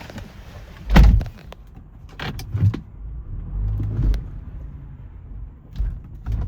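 A car's low rumble with a series of dull thumps, the loudest about a second in and two more near the end.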